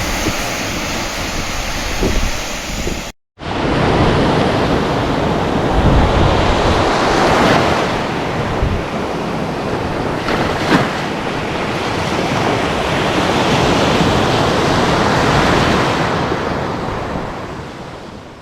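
Heavy surf breaking on the beach in typhoon-driven seas, with strong wind buffeting the microphone; the noise swells and eases with the waves and fades out near the end.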